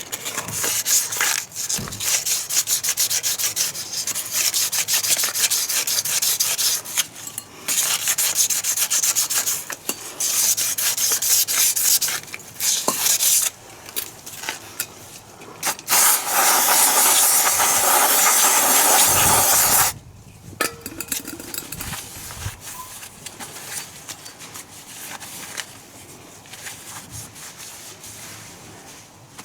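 Rough hand scraping or rubbing strokes on a part, coming in rapid repeated bursts. In the middle there is a steady hiss lasting about four seconds that cuts off suddenly. After that only quieter, scattered handling sounds follow.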